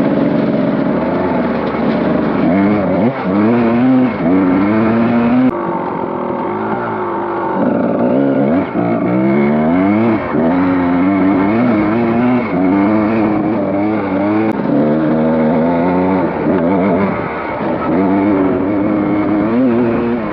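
Dirt bike engine revving up and down as it is ridden, its pitch rising and falling again and again with the throttle.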